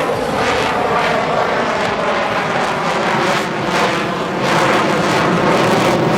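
Loud jet noise from a USAF F-35A Lightning II's single turbofan engine during its demonstration flight, a steady rough rushing that grows louder about four and a half seconds in.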